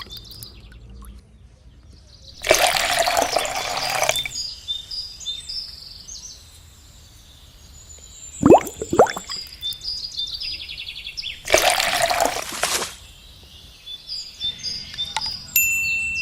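Water splashing in two loud bursts of about a second and a half each, roughly nine seconds apart. Each burst follows a pair of quick falling sweeps, with faint high chirps in between.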